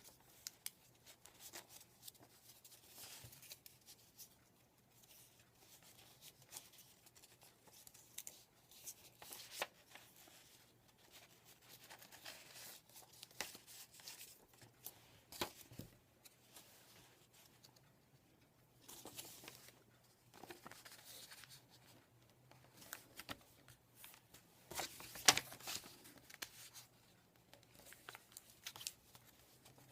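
A sheet of paper being folded and creased by hand, with scattered crinkles and rustles; a sharper crackle about 25 seconds in is the loudest.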